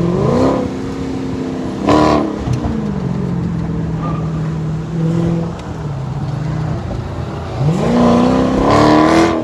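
Car engine revving and accelerating, its pitch climbing at the start and again in a longer rise near the end.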